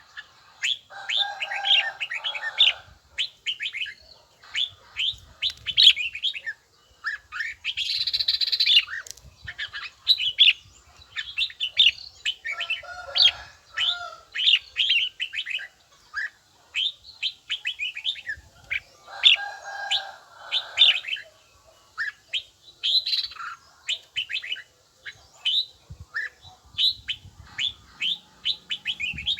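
Red-whiskered bulbul song: a fast, steady run of short, clear, high chirping notes. Lower warbled phrases break in about a second in, near the middle and again about two-thirds through, and there is a harsh rasping burst about eight seconds in.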